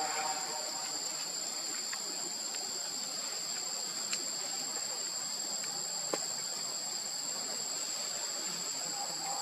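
Steady high-pitched buzzing of insects in the surrounding vegetation, holding two constant pitches, with a couple of faint clicks about four and six seconds in.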